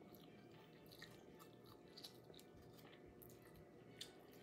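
Faint chewing of barbecue-sauced chicken, with a few soft, wet mouth clicks about one, two and four seconds in.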